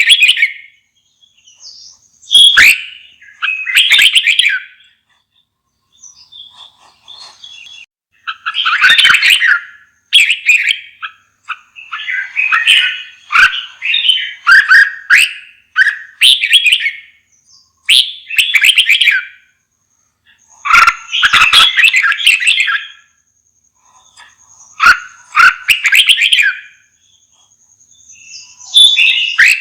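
Red-whiskered bulbul singing: a dozen or so short, loud, warbling phrases, each about a second long, separated by brief pauses.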